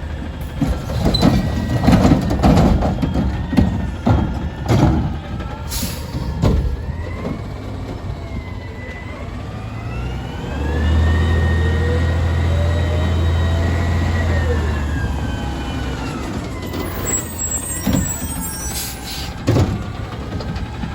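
Garbage truck at work: loud metal clanks and bangs during the first several seconds, then the truck's diesel engine revs up about ten seconds in and holds high for several seconds, as it does to drive the lifting hydraulics, before dropping back down. A few more knocks come near the end.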